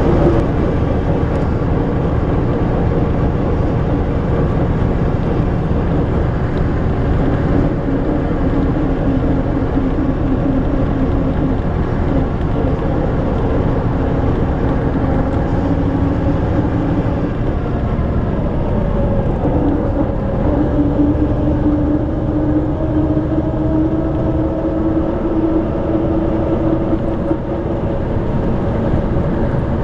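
Ikarus-250 coach's YaMZ diesel engine running steadily while under way. Its pitch dips and then climbs again about two-thirds of the way through.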